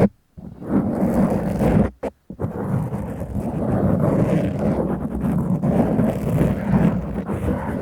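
Scratching and rubbing on the foam cover of a Tascam microphone: a dense, low, rumbling scratch close on the mic, broken by two short pauses in the first couple of seconds.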